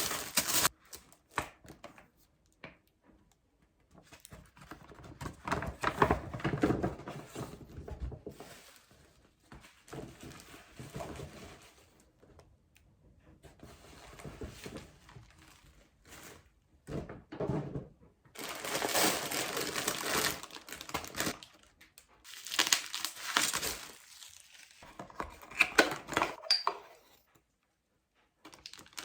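Intermittent crinkling and rustling of something being handled, in bursts of a few seconds with quiet gaps between, and a few light knocks.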